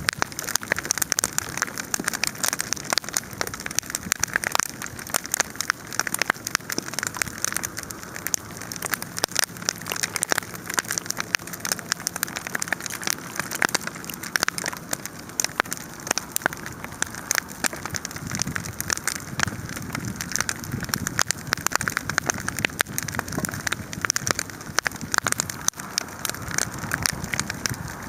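Large wood fire burning with dense, continuous crackling: many sharp pops and snaps a second over a steady hiss.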